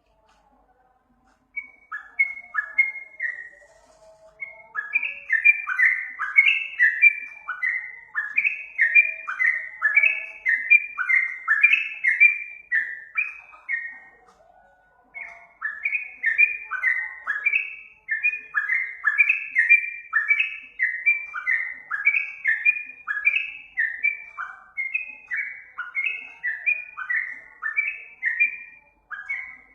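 Yellow-vented bulbul (trucukan) singing: long, rapid runs of short, falling whistled notes. The song breaks off briefly near the start and again about halfway through.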